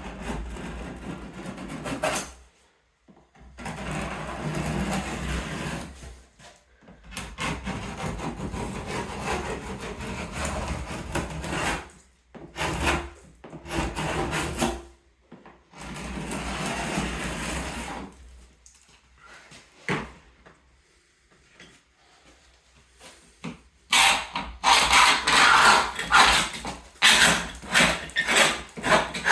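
A hand scraper scraping loose old paint off painted woodwork, in bouts of rasping strokes a few seconds long with short pauses between. Near the end the strokes turn quicker and louder.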